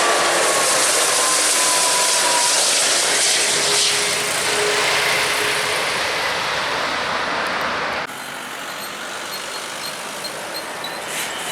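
Jet airliner passing close: a loud roar with engine whine gliding down in pitch as it goes by. About eight seconds in the sound drops abruptly to a quieter, more distant jet rumble.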